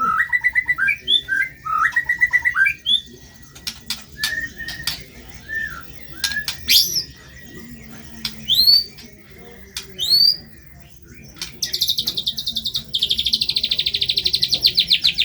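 White-rumped shama (murai batu) singing: a quick run of short whistled notes, then scattered clicks and three rising whistles. About eleven seconds in, a long, rapid, rattling trill begins and is the loudest part.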